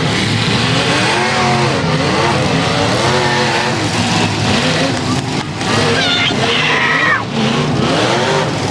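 Several demolition derby cars' V8 engines revving at once, many overlapping pitches rising and falling.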